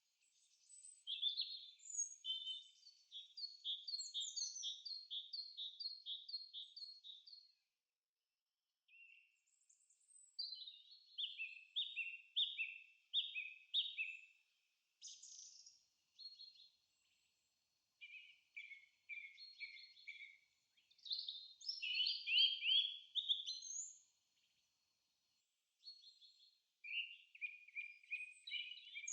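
Songbirds singing: phrases of quick, evenly repeated high chirps, several seconds long, broken by short pauses.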